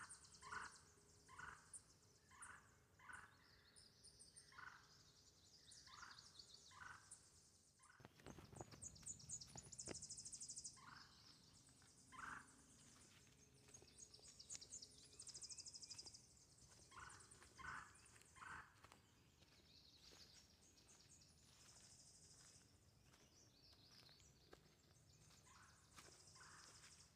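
A bird calling in runs of repeated, evenly spaced notes, about two a second, with high, thin trills of other birds behind; a brief rustle of handling noise comes about a third of the way in.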